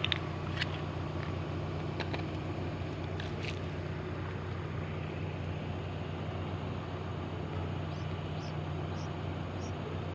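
Case backhoe loader's diesel engine running steadily at low revs, with a few short high chirps over it.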